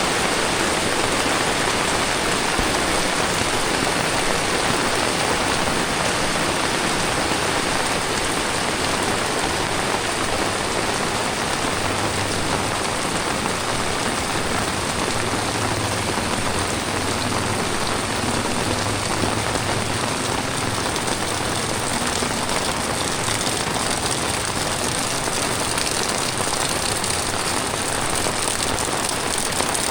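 Heavy tropical rain falling steadily on the ground and surfaces, a dense even hiss that holds the same level throughout. A faint low hum comes in underneath around the middle.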